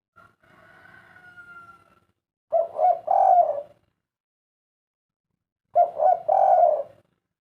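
Spotted dove (derkuku, 'kuk 3' type) cooing: two loud coo phrases about three seconds apart, each two short notes then a longer rolling note. A faint sound with a falling tone comes first.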